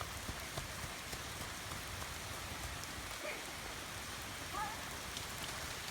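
Steady rain falling: an even hiss of raindrops, with scattered single drops ticking close by.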